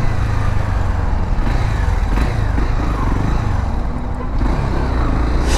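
Honda Sahara 300's single-cylinder engine running while the motorcycle rides slowly through city traffic: a steady low rumble.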